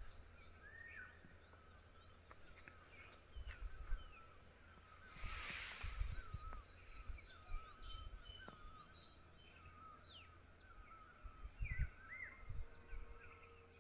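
Many small birds chirping, with short calls throughout, over low rumbles of wind on the microphone. A brief rush of hiss comes about five seconds in.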